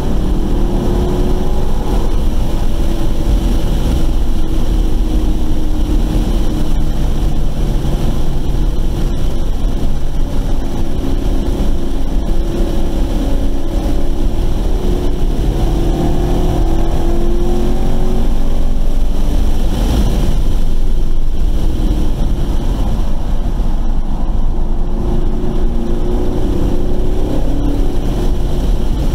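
Car engine heard from inside the cabin at speed on a race track, its note rising and falling with throttle and lifts through the corners, over a steady low rumble of road and wind noise.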